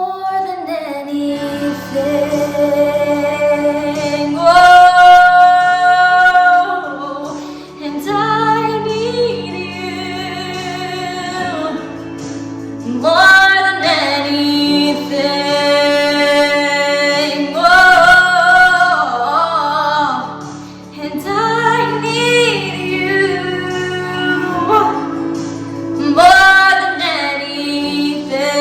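A woman singing a slow worship song in long held notes, over a sustained low accompaniment.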